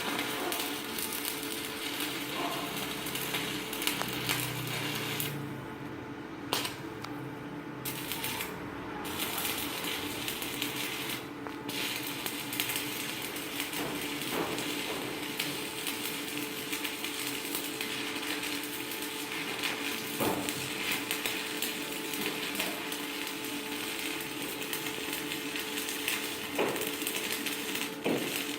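Stick-welding arc crackling and sizzling steadily as a 4.0 mm electrode burns, with a steady hum underneath.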